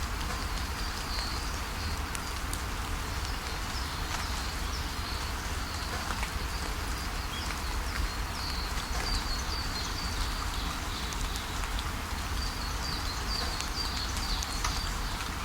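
Steady rain falling, with a small bird giving series of short, high chirps now and then over it.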